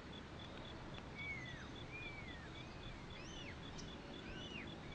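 Faint outdoor nature ambience: birds give short arching chirps about every second, over a faint high pulse repeating about four times a second.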